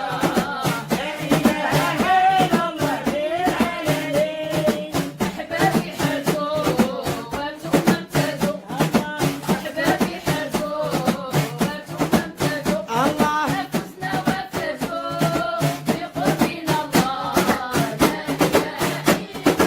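Devotional dhikr chant: singing voices over a steady beat of drum strokes.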